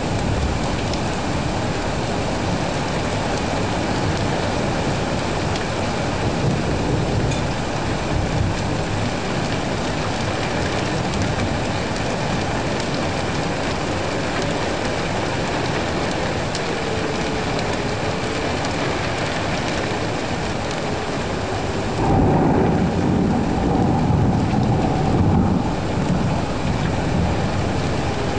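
Steady rain falling, with a low rumble of thunder that starts suddenly near the end and lasts about four seconds.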